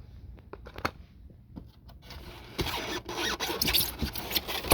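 Packaging being handled during an unboxing: a few light clicks and knocks, then from about two and a half seconds in a dense rustling scrape as the packing is pulled and worked.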